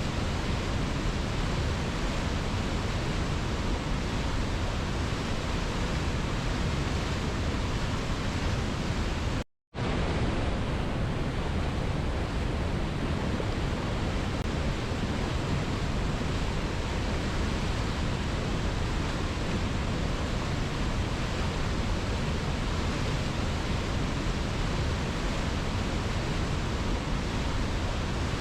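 Waterfall rushing in a steady, even roar of falling water. The sound cuts out completely for a split second about a third of the way through, then resumes unchanged.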